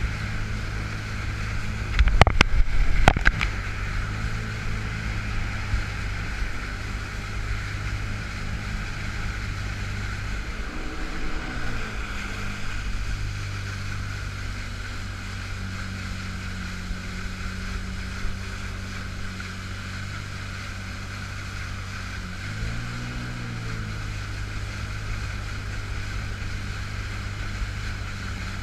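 Yamaha FX Cruiser H.O. personal watercraft's engine running steadily under way, with wind and water hiss; a few loud knocks about two seconds in. The engine note drops and climbs back twice, as the throttle is eased off and reopened. The engine is stuck in its low-power mode, limited to about 85% power.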